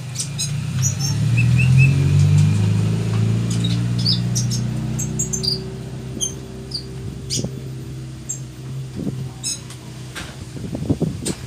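Sunbird chirping: many short, high-pitched chirps scattered at irregular intervals. Under them runs a low droning hum, loudest in the first few seconds and then fading.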